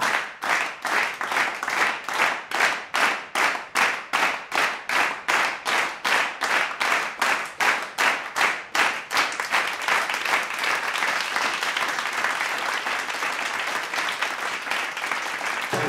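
A group clapping in unison, about two claps a second, for roughly nine seconds, then breaking into continuous applause.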